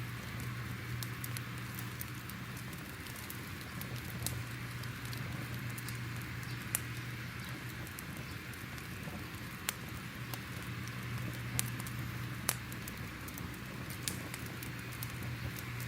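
Crackling fire: a steady soft hiss and low rumble with irregular sharp pops and snaps, a few louder ones about seven, ten and twelve seconds in.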